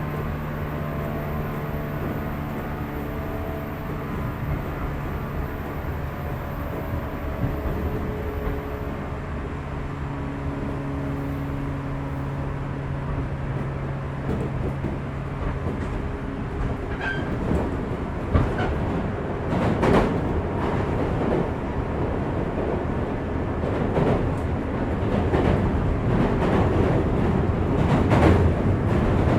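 Running sound inside a 415 series electric multiple unit motor car, heard from beneath the pantograph: a steady hum from the traction motors and gears for the first half. From about halfway on, the wheels knock over rail joints in irregular clusters, growing louder near the end.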